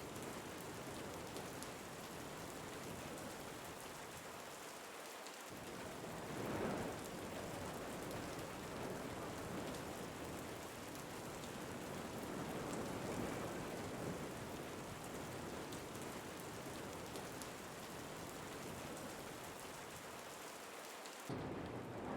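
Steady rain falling, with slow swells of wind rising and easing. Near the end the sound changes abruptly to a louder rush.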